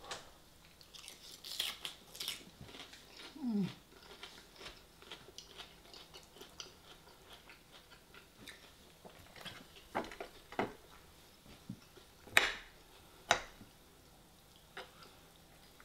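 Close-up chewing and crunching of raw salad, lettuce and cucumber, with a few sharp clicks of a metal fork against the plate, the loudest about twelve seconds in.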